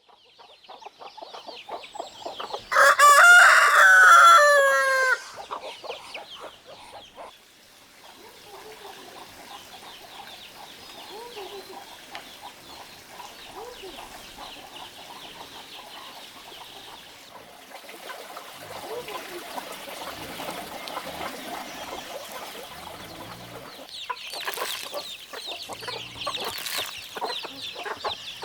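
A rooster crows once, long and loud, about three seconds in, over chickens clucking steadily throughout.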